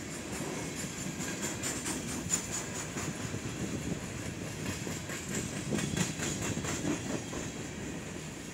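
Freight train of coal hopper cars rolling past, a steady rumble of steel wheels on rail with an uneven run of clicks and clacks as the wheels cross rail joints.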